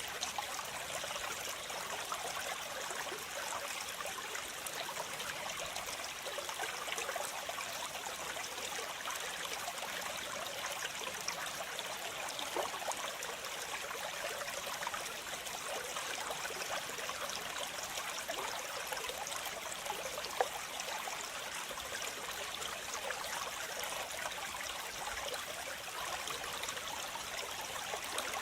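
Steady rush of falling water from a waterfall or cascading stream, a continuous even hiss.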